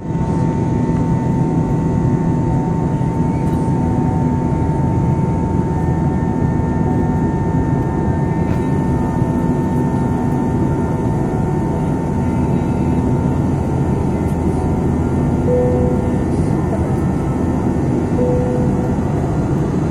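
Steady engine and airflow noise heard inside the cabin of an Airbus A321 airliner during takeoff, a constant low rumble with a thin steady whine. Two short faint tones sound late on.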